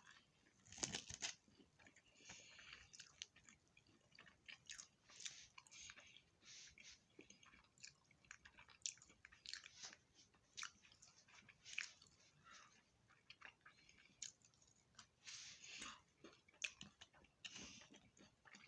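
Close-up chewing and biting on fried food, fish and tater tots, with irregular crunchy clicks and crackles throughout.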